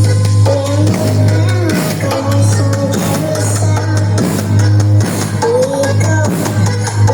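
Loud music played through a large sound-system rig during a sound check, with deep bass pulses about once a second under a melody line.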